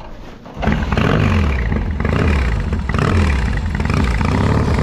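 Motorcycle engine opening up suddenly about half a second in and accelerating hard, its pitch rising and dropping back several times as it pulls away.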